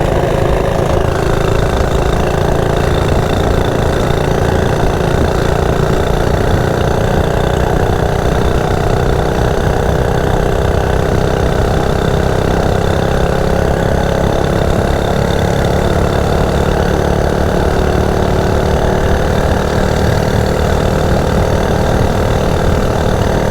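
Coleman CT100U minibike's 98cc single-cylinder four-stroke engine, governor removed and fitted with a mini muffler, running steadily under way on a top-speed run.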